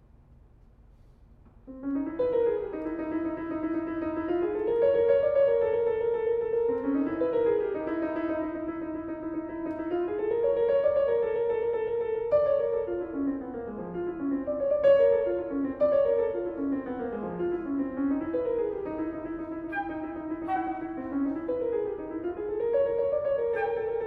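Piano music begins about two seconds in after near silence, in overlapping figures of notes that rise and fall in the middle register and recur every few seconds.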